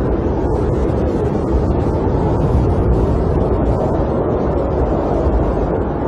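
Snowstorm wind heard from inside a camper: a steady, low, unbroken rushing noise.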